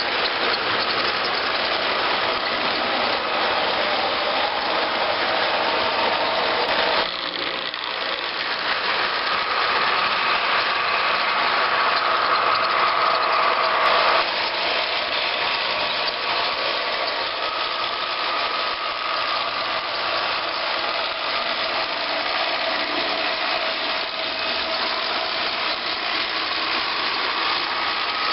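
Locomotive engine running steadily, with faint steady tones over it; the sound shifts abruptly twice, about seven and fourteen seconds in.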